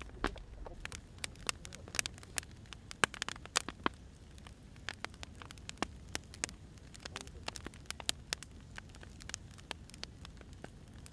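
Wood fire crackling: irregular sharp pops and snaps over a faint low rumble, coming thicker in the first half and sparser later.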